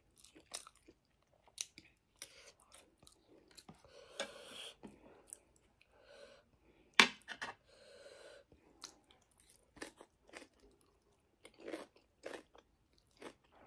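Close-miked chewing with crunching bites and wet mouth clicks, in irregular bursts, with one sharp crunch about seven seconds in.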